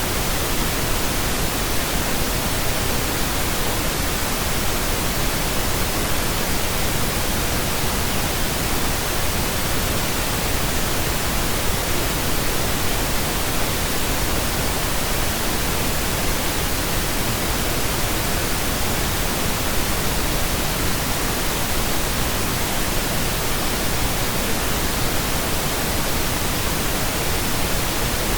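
Synthesized pink noise: a steady, unchanging hiss spread evenly across the whole range, with no tones or breaks.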